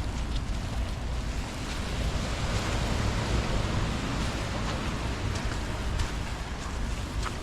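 Heavy rain falling, with wind buffeting the microphone in a low rumble and scattered sharp ticks of drops striking it.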